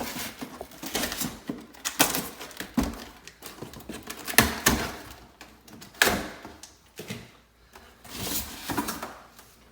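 Irregular knocks, thunks and rustling as a ducktail spoiler is unpacked from its packaging and handled, with sharper knocks about two, four and a half and six seconds in.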